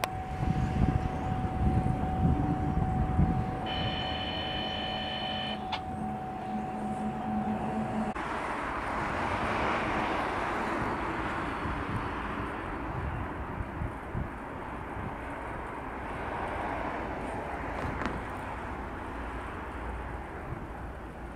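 A freight train passing close, with heavy rumble from its wheels on the rails and steady high-pitched tones over it for several seconds. About 8 seconds in the sound changes suddenly to a steadier rumble from a diesel locomotive running as it leads a coal train around a curve.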